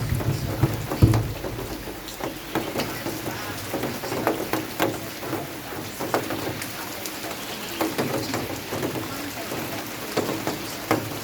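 Rain falling, with many separate drops ticking irregularly against a surface over a steady hiss. A low rumble sounds in about the first second.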